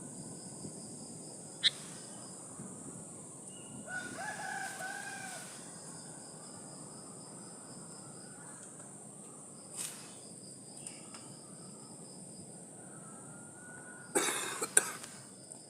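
Outdoor ambience with a steady high-pitched insect drone. A rooster crows once, faintly, about four seconds in. A few sharp knocks come near the end.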